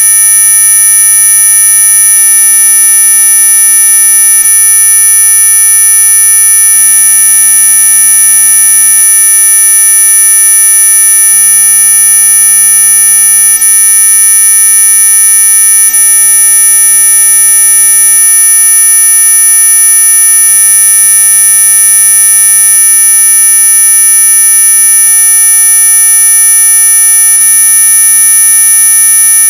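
Synthetic anti-mosquito repellent tone: a loud, steady electronic buzz made of several fixed pitches sounding together, from low to very high, with no change or break.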